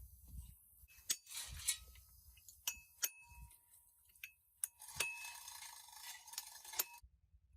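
Metal parts and tools clinking and tapping against each other: about seven sharp, irregular clinks, several ringing briefly, with scraping between them.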